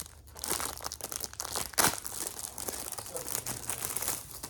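Package wrapping crinkling and tearing as a mail delivery is opened by hand, in a dense run of crackles with one sharp crack a little under two seconds in.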